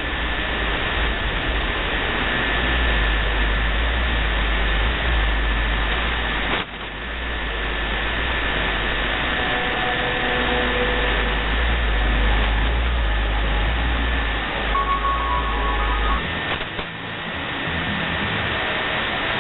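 Shortwave radio receiver tuned to 5910 kHz, giving steady static hiss with a faint steady heterodyne whistle and a few short faint tones. A low hum runs underneath and stops about 16 seconds in, and the signal dips briefly about six and a half seconds in.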